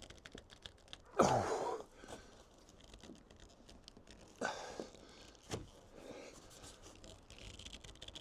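A hand-turned Phillips screwdriver working at screws in a plastic truck-cap trim piece: light clicks, with two louder scraping, creaking bursts about a second in and again near the middle, and a sharp click shortly after.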